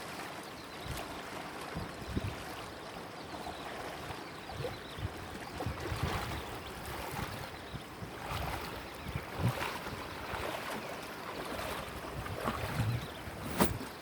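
River water splashing and lapping against a small boat's hull, with irregular low knocks and one sharp knock near the end.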